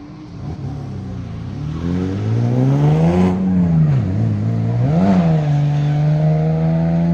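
Drift car's engine revving hard and getting louder as it approaches; the pitch climbs, drops back about four seconds in, flares up again, then holds steady and high near the end.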